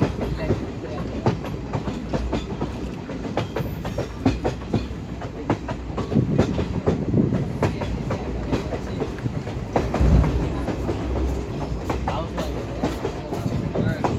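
Train running along the track: a steady low rumble with irregular clicks and knocks of the wheels over the rails.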